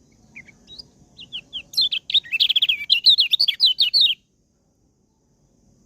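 A kecial, a white-eye from Lombok, singing: a few short separate chirps, then a fast, high, warbling run of notes that stops abruptly about four seconds in.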